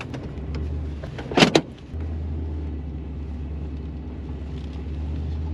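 Pickup truck driving on the road: a steady low drone of engine and road noise, with one short, sharp knock about a second and a half in.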